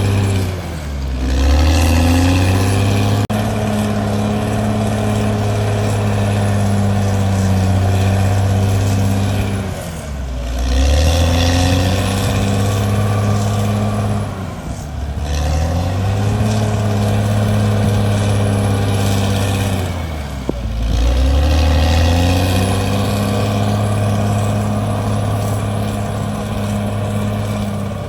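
Caterpillar D6R bulldozer's diesel engine running hard, its pitch sagging and recovering four times as the engine takes load and picks back up.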